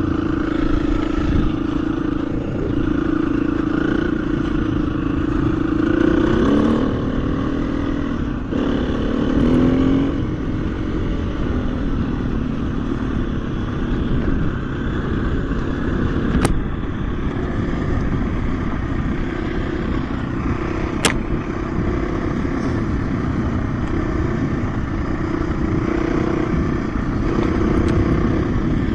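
KTM 350 EXC-F dirt bike's single-cylinder four-stroke engine running under way, mostly at a steady pitch, with short rises in revs about six and nine seconds in. Two sharp clicks sound in the second half.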